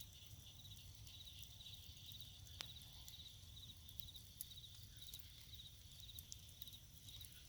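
Faint night insects chirping in short, evenly repeated trills, over a steady high-pitched hum, with a few sharp pops from the bonfire.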